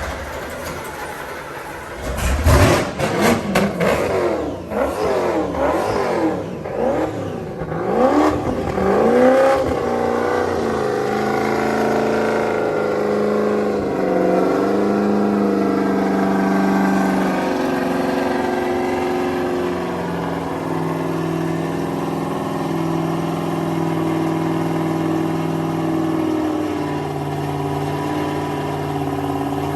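Offshore powerboat engine cold start: the engine catches about two seconds in and is revved up and down several times, then settles into a steady fast idle that drops in pitch in a few steps.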